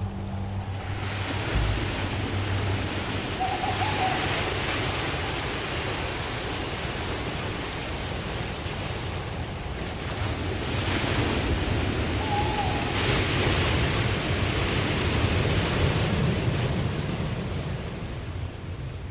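Waterfall rushing, a steady noise of falling water that swells louder in the second half. A short, wavering animal call sounds twice over it.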